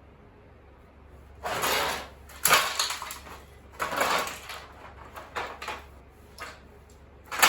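Clattering and knocking of a shredder being picked up and handled, a run of sudden bangs and rattles starting about a second and a half in.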